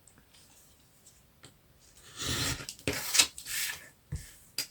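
Scissors cutting through paper or card: three short rasping cuts about two seconds in, then a few light clicks near the end.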